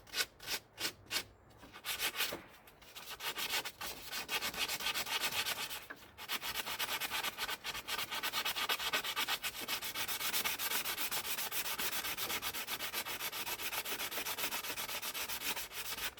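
Hand scrubbing of a car part with an abrasive, knocking off loose flaky crust before paint. It starts as separate strokes about four a second, then after a short pause becomes a fast, steady back-and-forth scrubbing with a brief break about six seconds in.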